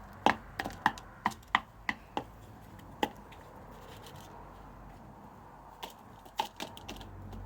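Chickens pecking at grain: sharp, irregular taps, several a second for the first two seconds, then sparse, with a short cluster near the end.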